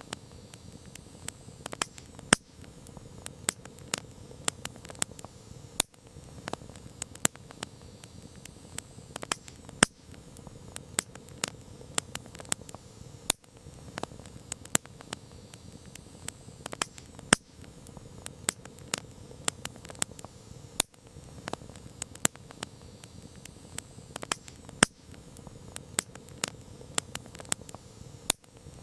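Campfire crackling: a steady low hiss of burning wood with sharp, irregular pops and snaps several times a second, some much louder than the rest.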